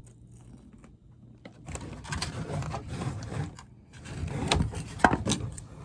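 Household handling noises: irregular clicks, knocks and rustling, as of things being moved and set down, with the sharpest knocks about five seconds in.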